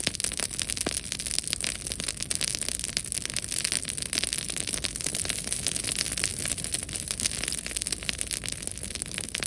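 Bonfire crackling: a dense run of small sharp pops and snaps over a steady hiss, without letting up.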